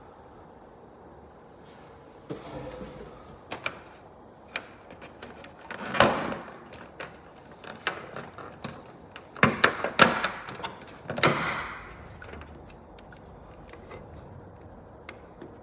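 Handling noises: scattered clicks and knocks with a few short rustling swishes, the loudest knocks about six and ten seconds in.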